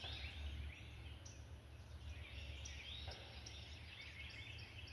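Birds chirping and calling in short, repeated notes, faint, over a low steady rumble.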